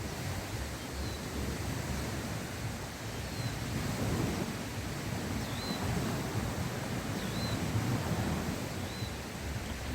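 Strong wind gusting and buffeting the microphone, with waves splashing on the shore in a storm. A faint short high chirp recurs every second or two.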